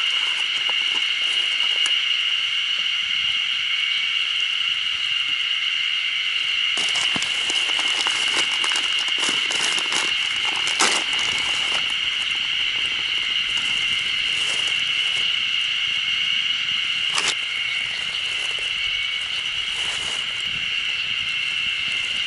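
Campfire crackling and popping, thickest from about seven to twelve seconds in, over a steady high-pitched buzz that does not let up.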